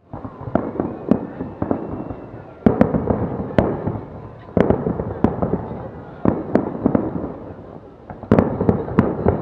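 Fireworks display: volleys of sharp bangs with echoing tails, a fresh cluster of reports about every two seconds.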